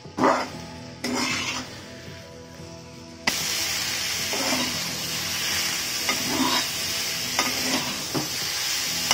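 Boneless chicken pieces being stirred with a spatula in a wok, the spatula scraping the pan in a few strokes. About three seconds in, a steady sizzle starts suddenly and carries on under further stirring strokes as the chicken cooks off the water it releases.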